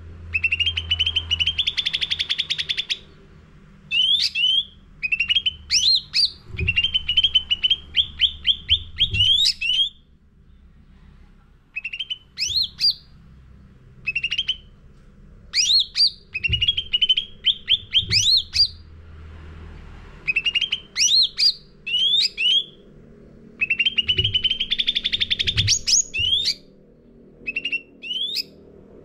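Cucak ranting songbird singing in a long, varied run of phrases: fast trills of repeated chirps broken by sharp rising whistled notes, with short pauses between bursts.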